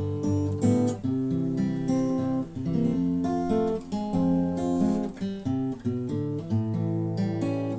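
Intro music: acoustic guitar being strummed and picked.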